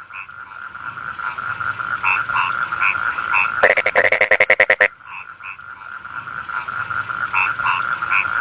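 A chorus of rice-field frogs calling steadily, with short croaks repeating over the top. About halfway through, one frog gives a loud rattling croak of a dozen or so rapid pulses that lasts just over a second.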